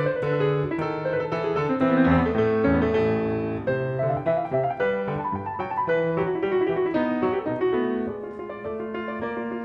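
Calm solo piano background music, a flowing line of notes over held bass notes, getting a little softer near the end.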